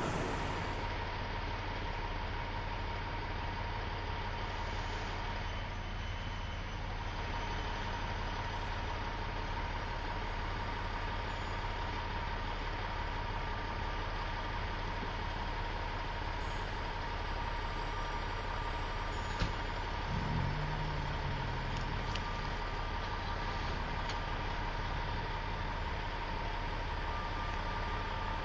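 A vehicle engine idling: a steady low hum under an even background noise. A single sharp click about nineteen seconds in, followed by a brief low sound.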